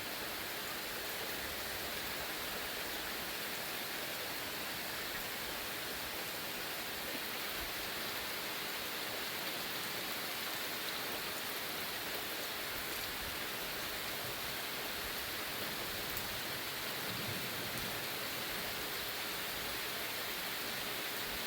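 Steady heavy rain falling, an even hiss at a constant level.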